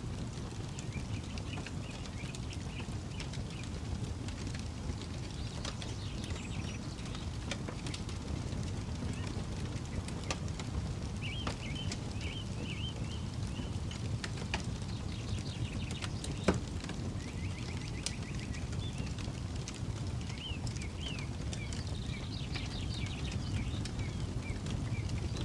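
Campfire crackling with scattered sharp pops, one louder than the rest about sixteen seconds in, over a steady low rumble. Birds chirp in short bursts of quick notes.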